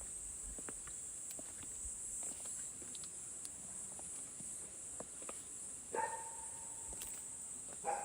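Faint, steady high-pitched chirring of an insect chorus, with scattered small clicks. Twice a short pitched animal call cuts in, about six seconds in and again near the end.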